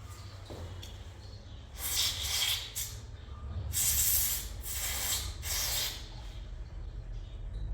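Four bursts of hissing spray, each lasting about half a second to a second, over a steady low hum.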